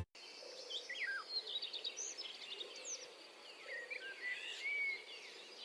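Several small birds chirping and calling faintly: many short quick notes and brief falling whistles from different birds, over a faint steady high hiss.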